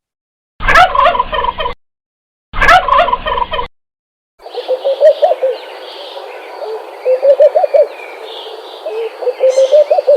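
Turkeys gobbling: two short, rapid gobbles about two seconds apart, then a longer stretch of repeated gobbling bursts over a steady background hiss.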